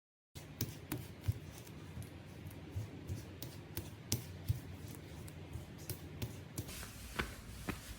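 Muted footsteps in soft-soled anti-noise slippers on an apartment floor: irregular soft thuds and small clicks, several a second, starting about a third of a second in.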